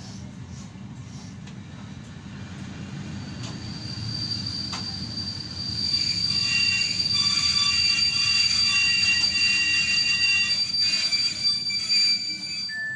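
Passenger train rolling into a station with a low rumble. A high-pitched wheel squeal starts a few seconds in and grows louder about halfway through, with several steady shrill tones, as the train brakes toward its stop.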